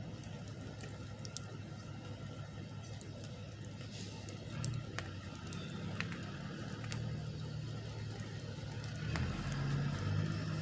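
Truck engine running with a low, steady drone that gets louder about halfway through and again near the end, with scattered light ticks.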